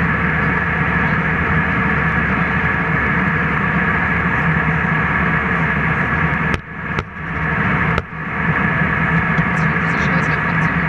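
Steady jet airliner cabin noise, the rush of engines and airflow with a constant hum. It cuts out briefly three times between about six and a half and eight seconds in.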